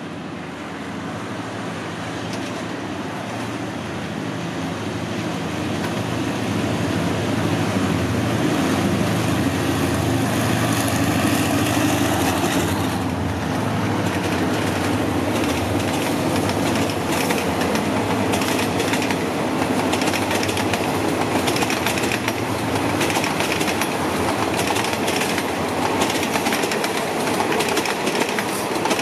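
Diesel locomotive hauling a passenger train, its engine running steadily and growing louder as it approaches and passes. From about halfway on, the coaches roll by with a rapid clatter of wheel clicks over the rail joints.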